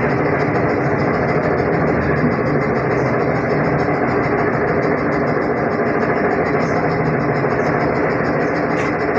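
Steady cabin noise of a ZiU-682G trolleybus under way: an even rumble of tyres and running gear with a faint steady hum, no change in level.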